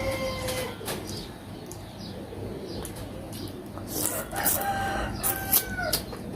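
Rooster crowing: a long held call tails off in the first second, and another long crow comes about four seconds in. Scattered sharp clicks and taps run between the calls.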